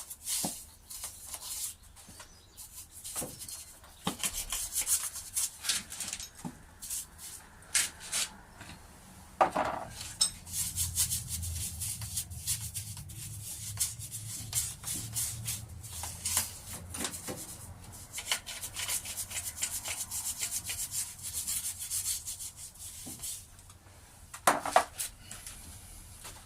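Repeated scraping and rubbing strokes of grime being cleaned off the metal parts of a side-valve engine, with a couple of louder knocks, one about ten seconds in and one near the end.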